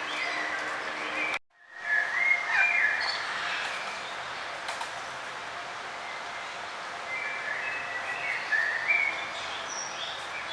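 Birds chirping in short trills and high notes over a steady outdoor hiss. The chirps are busiest just after a brief complete dropout of the sound about a second and a half in, and again near the end.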